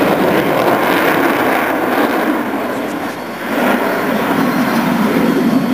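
Jet aircraft flying over, a loud, steady rushing engine noise that dips slightly about three seconds in and then swells again.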